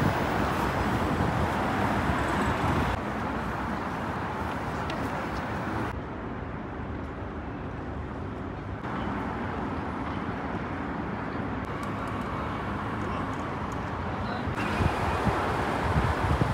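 Steady city traffic noise, with no clear single vehicle standing out; the background changes abruptly several times.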